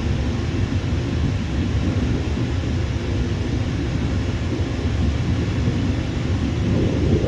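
Steady low rumble of a jet airliner's engines, deep and even throughout.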